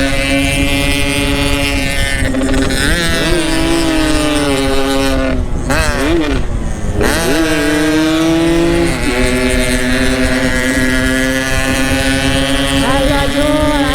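Yamaha RX-King two-stroke motorcycle engine running while riding, with wind on the microphone. The engine pitch holds steady, dips and climbs a few times, and drops sharply and comes back up around the middle.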